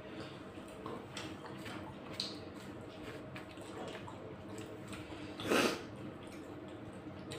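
Open-mouth chewing close to the microphone: wet smacking and many small sharp clicks of food being bitten and chewed, with one louder, longer noisy mouth sound about five and a half seconds in.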